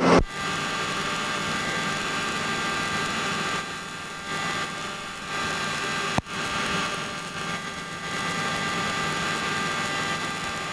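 Helicopter running with a steady drone and a high whine that holds its pitch. There is a single sharp click about six seconds in.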